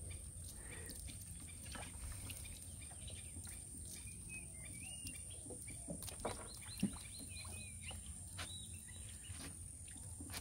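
Faint birds chirping in short rising-and-falling calls over a steady high-pitched whine, with a few soft knocks and one sharper knock about two-thirds of the way through.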